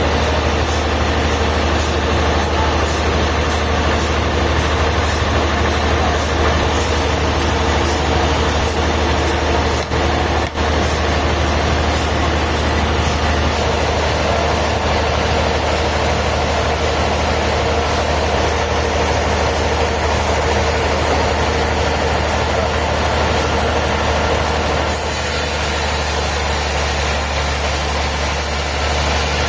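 Sawmill machinery running steadily: a constant low engine hum under a broad mechanical noise, with a brief dip about ten seconds in.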